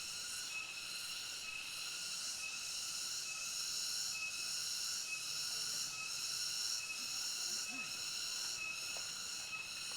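Tropical insect chorus: several steady, high-pitched buzzing tones sounding together, with a short pip repeating at a regular pace.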